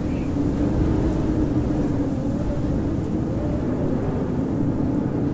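Howling blizzard wind: a steady low rumble with a moaning tone that wavers up and down in pitch.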